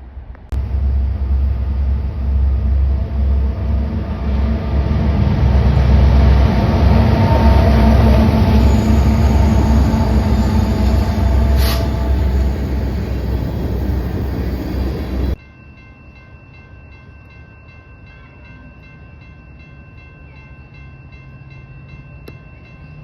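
A train passing close by, a loud steady rumble with rail noise that starts suddenly and cuts off abruptly about fifteen seconds in. After that the sound drops to a quieter background with a few faint steady tones.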